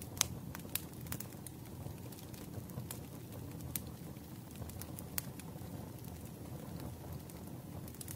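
Wood fire crackling: sharp, irregular pops over a steady low rumble, with the loudest pop just after the start.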